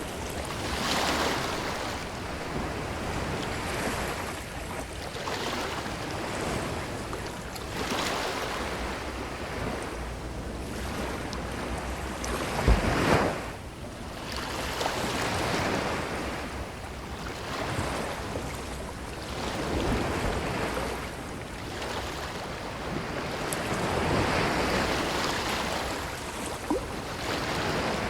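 Ocean waves breaking and washing up a beach, the surf rising and falling every few seconds, with one louder burst about halfway through.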